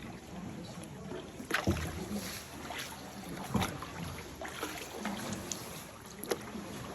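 Kayak paddle dipping and splashing in calm water, short irregular splashes over a soft watery wash, with the loudest strokes about a second and a half in and again about three and a half seconds in.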